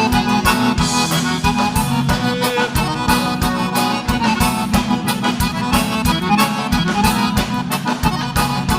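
Live gaúcho vaneira band playing an instrumental passage, with the button accordion leading over a steady, driving dance beat of drums and bass.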